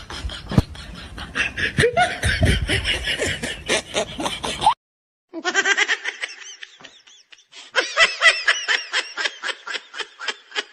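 Laughter sound effects: fits of rapid, rhythmic laughing in two separate clips, with a sudden moment of dead silence between them about five seconds in.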